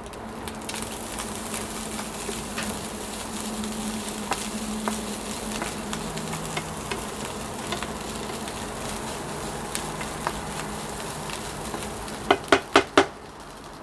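Fried rice with egg, spring onion and green chili sizzling in a nonstick frying pan as it is stir-fried with a wooden spatula: a steady frying hiss with scattered scrapes and clicks of the spatula, over a low steady hum. Near the end, four short loud sounds come in quick succession.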